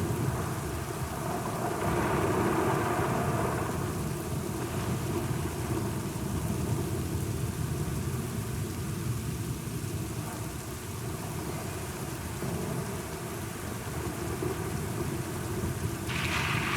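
Steady rain with low rolling thunder, the rumble swelling about two seconds in; the rain hiss grows brighter near the end.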